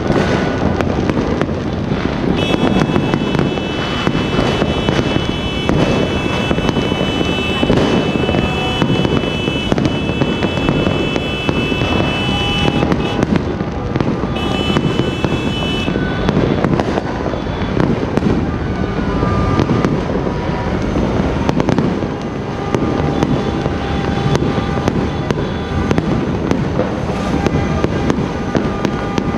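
New Year's Eve fireworks and firecrackers going off all around in a continuous barrage of dense crackling, popping and bangs. A steady high tone is held for about ten seconds in the first half.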